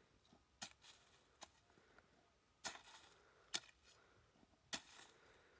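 Near silence with faint, short taps or knocks, about six of them at uneven gaps of roughly a second.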